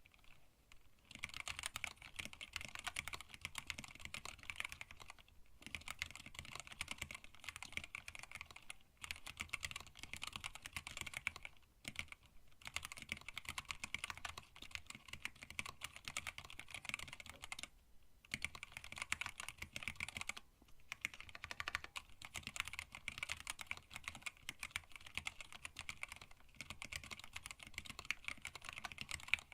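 Steady fast typing on a hand-wired split mechanical keyboard with Tealios linear switches, blank PBT keycaps and a stacked acrylic case: rapid runs of key clacks, broken by short pauses every few seconds.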